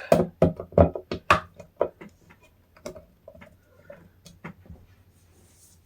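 Hard objects being handled on a surface: a quick series of sharp knocks and clicks in the first two seconds, then scattered lighter ticks.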